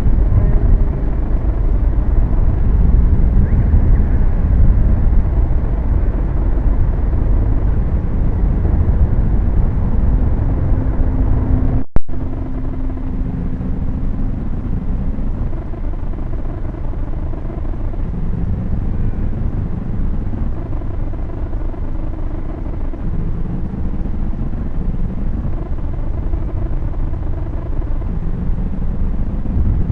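A truck engine running close by, a loud steady low rumble picked up by the small onboard camera microphone of a Syma X5C quadcopter lying on the road. About twelve seconds in the recording cuts out for an instant, leaving a sharp click.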